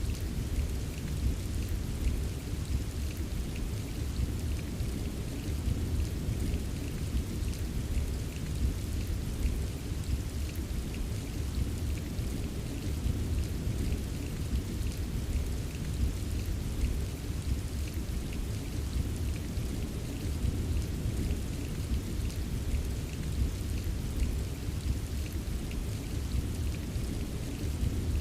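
Steady rain with a scatter of individual drops tapping, over a continuous low rumble of distant thunder. No single loud thunderclap; the sound stays even throughout.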